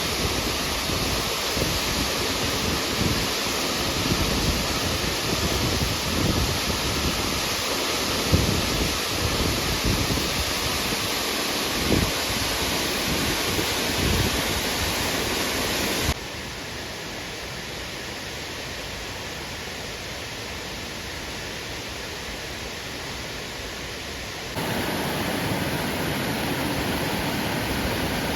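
The Yasu-no-Taki waterfall, a steady, even rush of falling water. About 16 seconds in it suddenly becomes quieter, and it jumps back up about eight seconds later. Low, gusty buffeting, like wind on the microphone, runs under the rush in the first half.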